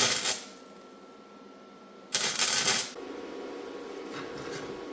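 Welder making short tack welds on steel angle iron: a brief burst of crackle at the start and a longer one, just under a second, about two seconds in. A steady low hum follows.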